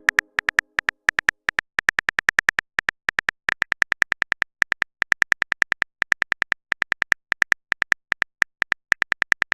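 Typing sound effect: a long run of short, identical high clicks, several a second, in uneven runs with brief pauses, like a message being keyed in on a phone.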